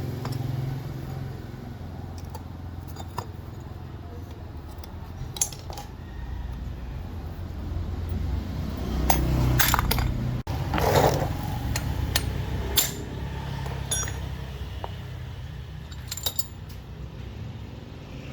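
Scattered light metallic clinks and taps of small parts being handled, heaviest in the middle, over a steady low rumble.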